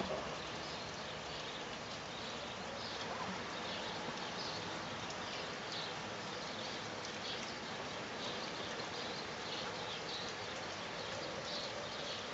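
Steady autumn rain falling, an even hiss without pause, with short high chirps scattered through it.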